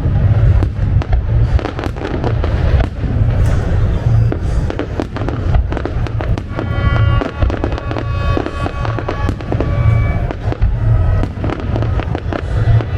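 Aerial fireworks going off in a dense, continuous barrage of bangs and crackles over deep booms, with music and a run of steady pitched tones about halfway through.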